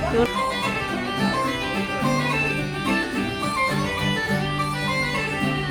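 Live band music in a lounge: a song with held notes over a steady bass line, no singing or talk over it.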